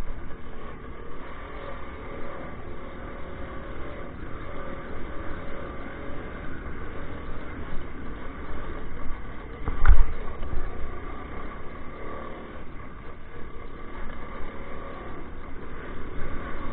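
Minsk 125 motorcycle's two-stroke single-cylinder engine running while being ridden, under a heavy low rumble, with one loud knock about ten seconds in.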